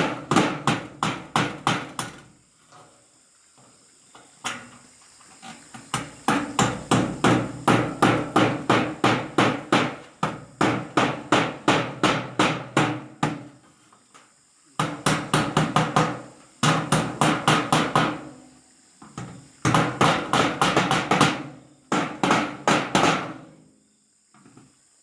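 Hammer driving nails, in quick runs of about four blows a second broken by short pauses.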